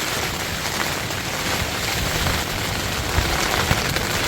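Heavy rain falling steadily in a storm, a constant hiss with a low rumble of wind underneath.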